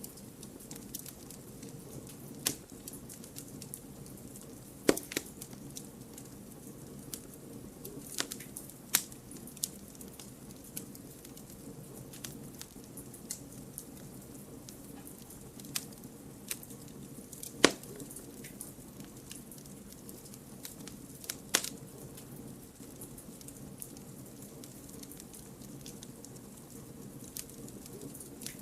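Campfire of split firewood burning with a steady low rumble and hiss, and irregular sharp crackles and pops, a few of them louder snaps.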